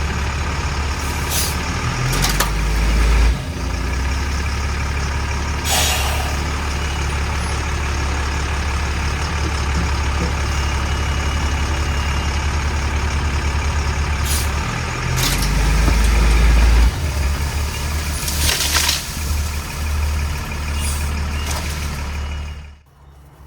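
FMTV military truck's diesel engine running under load as it pulls on a tree, surging louder twice. Several short, sharp hisses of air from the truck's air brakes. The sound cuts off near the end.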